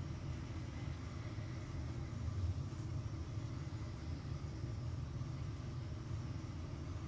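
Steady low background rumble, with no events standing out.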